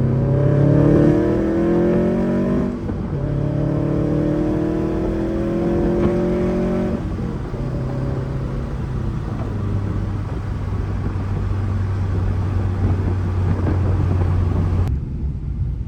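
Subaru WRX with a catless downpipe and Tomei cat-back exhaust accelerating. The engine note climbs in pitch, drops at a gear change a little under three seconds in, then climbs again through the next gear. After that it settles into a steady low drone at cruise.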